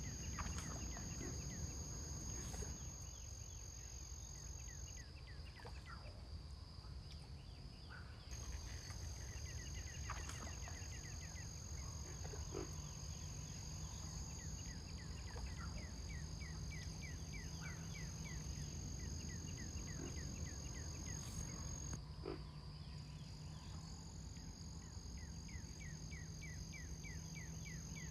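An unidentified bird calling in runs of quick, repeated short notes that come again every several seconds, over a steady high-pitched insect drone.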